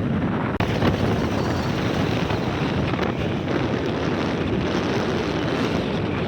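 Steady rush of wind buffeting the microphone on a moving vehicle, with a brief break about half a second in.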